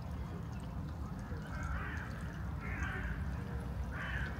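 Harsh bird calls, three in a row about a second apart, over a steady low rumble.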